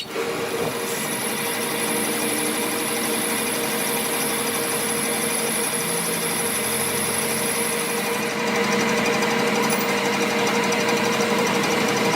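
A workshop machine running steadily with a constant hum and a high whine, which changes slightly about eight seconds in.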